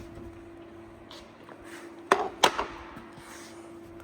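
Two sharp knocks about a third of a second apart, about two seconds in, as items are taken out and set down inside a truck cab, over a steady faint hum.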